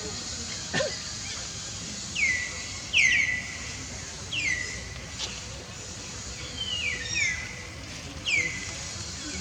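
A series of about seven short, high chirping calls, each falling quickly in pitch, coming every second or so at uneven intervals. A single sharp click comes about a second in.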